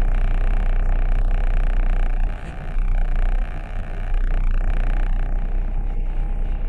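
Steady low rumble of a car's engine and road noise, heard inside the cabin, easing briefly about two and a half seconds in.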